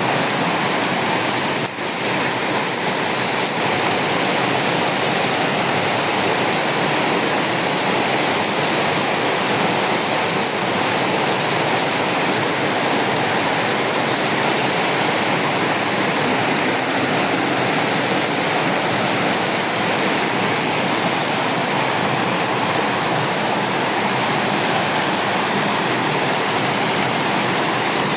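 Very heavy rain pouring down, a loud, steady, even rush of water.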